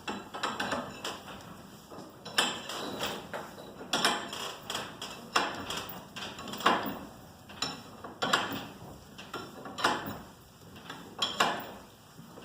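Steel turning bars working in the winding cone of a garage door torsion spring as the spring is wound a quarter turn at a time: a metallic clack or clink every second or so.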